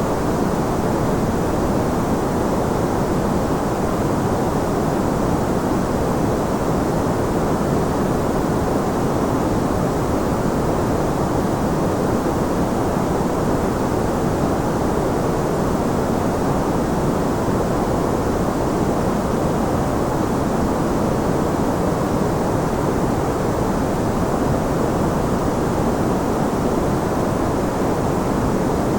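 Steady white noise for sleep, an even, unchanging rush that is deep and muffled, with most of its strength in the low and middle range and little treble.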